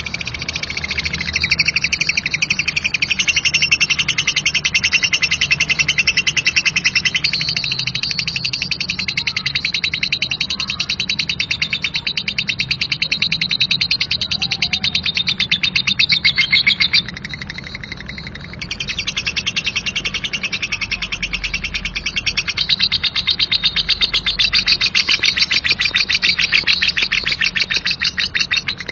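Lovebird singing its 'ngekek' song: a long, rough, very rapid chattering trill of high repeated notes. It dips briefly about 17 seconds in, then carries on.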